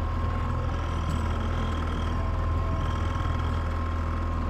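Boat's gas outboard motor running steadily at trolling speed, a low even drone with a faint steady whine above it.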